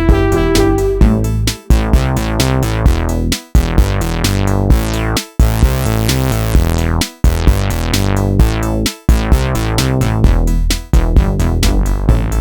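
Electronic music from the Tone2 Icarus 3 software synthesizer playing a factory preset: a pulsing synth sequence over drum-machine beats, with short sharp breaks into silence about every two seconds.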